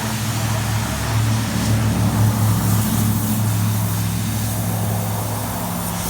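An engine running steadily with a low hum over a background hiss. It grows slightly louder a second or two in.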